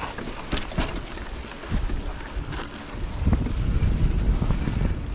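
Mountain bike rattling over rough singletrack with wind buffeting the camera microphone; the low rumble gets stronger about two seconds in and again near three seconds, with scattered knocks.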